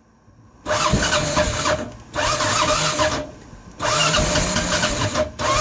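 Motorcycle engine being cranked on its starter in three tries of about a second each, with a steady starter whine. The engine is trying to catch but has not yet fired.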